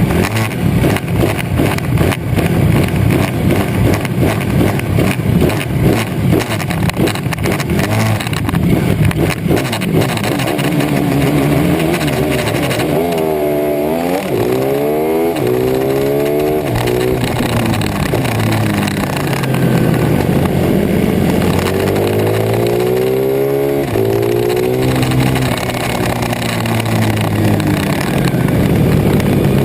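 Racing pit bike engines revving hard. For the first ten seconds one engine's firing is a close, rapid rattle; after that several engines sweep up and down in pitch at once as the bikes accelerate and brake.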